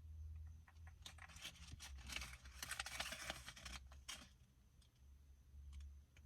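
Paper banknotes being handled and counted, a faint rustling and crinkling with small clicks for a few seconds in the middle, over a steady low rumble.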